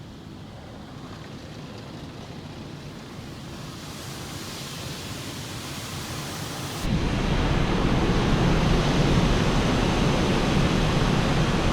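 Automatic touchless car wash spraying water onto the car, heard from inside the car: a steady rush of spray that slowly grows louder, then jumps much louder about seven seconds in.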